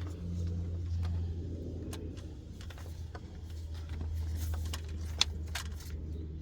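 A steady low hum with light, scattered clicks over it and one sharp tick about five seconds in.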